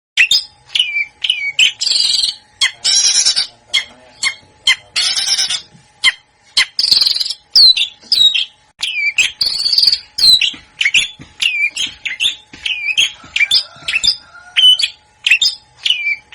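A songbird singing fast: sharp whistled notes that slide steeply down, repeated in quick runs and mixed with harsh raspy bursts.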